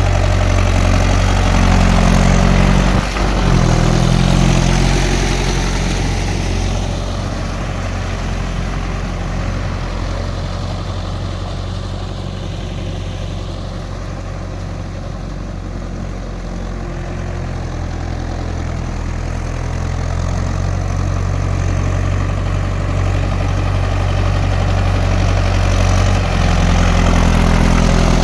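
Tractor diesel engine running steadily, louder over the first few seconds and again near the end, quieter through the middle.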